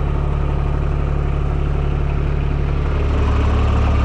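TYM T224 subcompact tractor's diesel engine running steadily at idle, a little louder about three seconds in.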